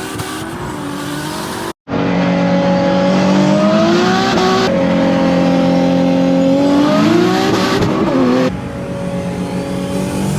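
Car engine accelerating hard, its pitch climbing, holding, then climbing again and dropping at a gear change, in short edited clips split by a brief dropout about two seconds in.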